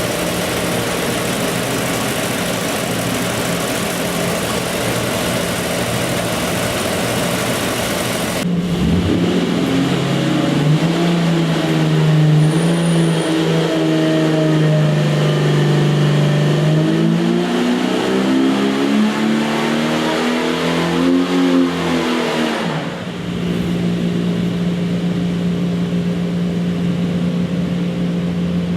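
Golen Engine 4.6-litre Jeep stroker inline-six running on an engine dyno: a steady run, then about eight seconds in the engine is loaded and revved in a dyno pull, its pitch climbing, until it drops abruptly back to a steady run some fifteen seconds later.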